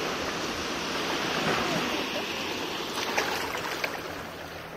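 Seawater washing and rushing over shoreline rocks, a steady noise with a few short sharp splashes about three to four seconds in.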